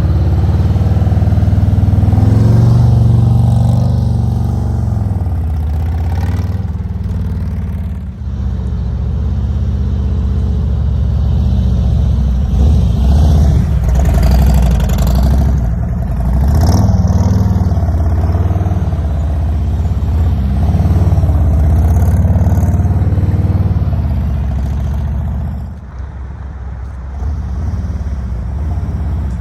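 Motorcycle engine running at low speed, its pitch rising and falling with small throttle changes, as in slow-speed U-turn maneuvers; the sound dips briefly about eight seconds in and again near the end.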